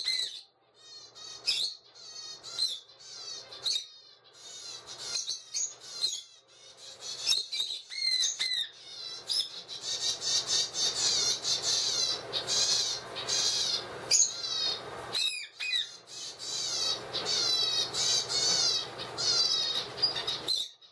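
Young ringneck × Alexandrine parakeet chick making rapid, repeated squeaky begging calls, a sign that it is still at the age of begging for food. The calls come in short bouts at first, then run almost without pause through the second half.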